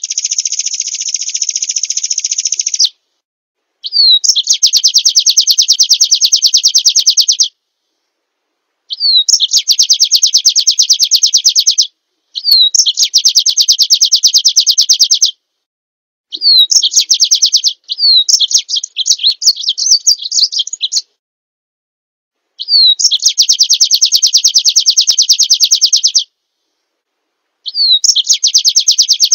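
Small songbird singing in repeated bouts of a very fast, high trill, each about three seconds long and usually opened by a short down-slurred note. The bouts are separated by gaps of dead silence, as in an edited song recording.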